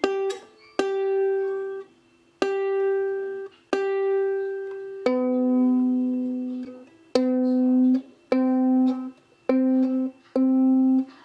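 Ukulele playing a slow tune in single plucked notes, each held about a second and cut off before the next, with short gaps between.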